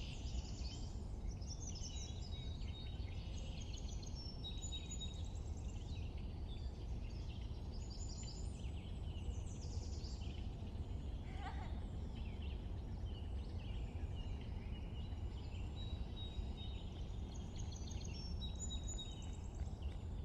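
Many small birds chirping and trilling in overlapping calls, with one lower, falling call near the middle, over a steady low background rumble.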